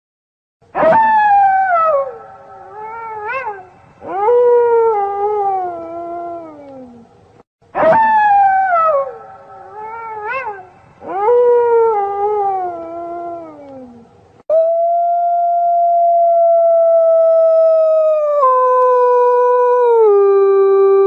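Wolves howling: several long howls that slide down in pitch, overlapping one another, with the same run of howls repeating about seven seconds later. From about two-thirds of the way in, one long steady howl that drops to a lower pitch twice near the end.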